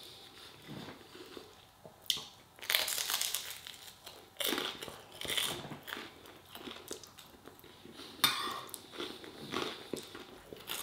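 Close-up crunching and chewing as a man bites into toasted garlic bread and eats, in irregular crunchy bursts.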